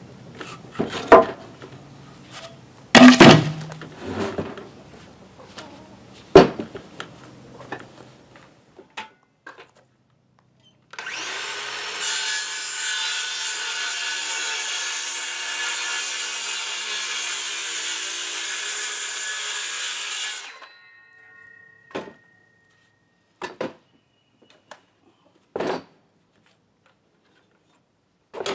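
Wood clattering and knocking for several seconds, then a power saw cutting through a wooden board for about nine seconds, starting and stopping abruptly, followed by a few single knocks.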